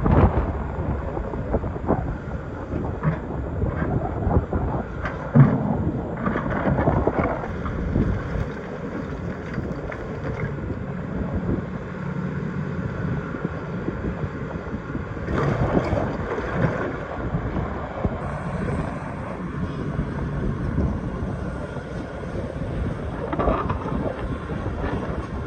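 Excavator's diesel engine running under load while the bucket digs, with repeated scraping and knocking of steel against rock and a sharp loud knock about five seconds in.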